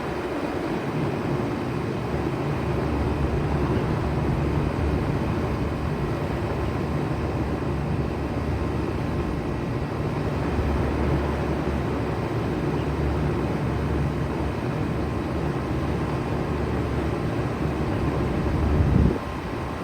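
2007 Bard 3.5-ton wall-hung heat pump running steadily in cooling mode, a continuous hum and rush with faint steady tones. The low rumble drops away suddenly near the end.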